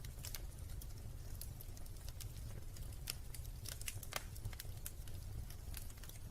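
Wood fire crackling in a fireplace: irregular sharp pops and snaps, a few a second, over a low steady rumble.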